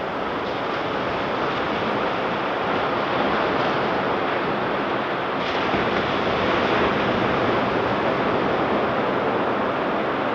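Ocean surf breaking and washing on a sandy beach, a steady rush that swells a little through the middle and eases near the end.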